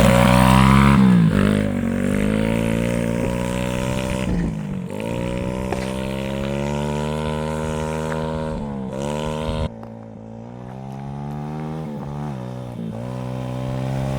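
BRZ 110cc semi-automatic pit bike's single-cylinder four-stroke engine running at full throttle on a top-speed run. The engine note climbs, then dips and climbs again at each of about four upshifts.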